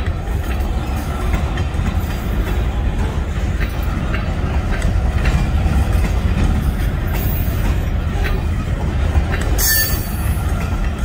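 Freight train's covered hopper cars rolling past on the rails: a steady low rumble of steel wheels on track with scattered clicks and knocks. A brief high-pitched sound comes near the end.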